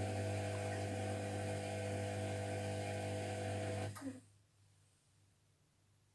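Zerowatt/Hoover Performa 1000 washing machine running mid-wash with a steady electric hum, which cuts off abruptly with a click about four seconds in.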